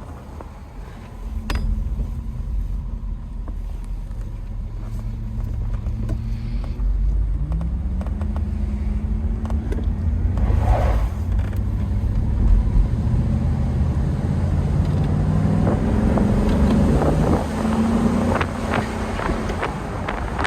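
1988 Mercedes-Benz 560SL's 5.6-litre V8 engine running under way, getting louder about a second in, its note climbing in pitch twice as the car accelerates.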